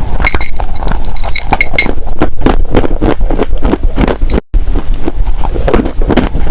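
Dry crunchy clay crunching and crumbling in a rapid, dense run of crisp crackles, cut off for a moment about four and a half seconds in.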